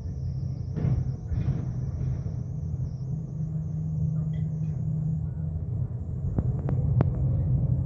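Scania K270UB bus engine and ZF automatic gearbox running, a steady low drone with a few sharp clicks or rattles about six to seven seconds in.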